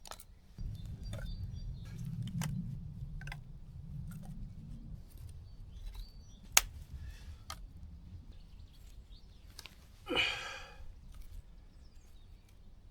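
Woodland sounds: scattered sharp clicks and snaps, a low rumble in the first few seconds, and a single bird call about ten seconds in.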